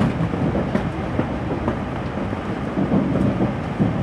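Running noise inside a moving N700A Shinkansen car: a steady low rumble with irregular faint clicks from the wheels on the rails.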